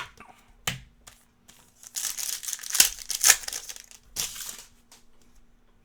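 Trading cards and their pack wrapper being handled: a few sharp clicks, then a couple of seconds of crinkling and rustling.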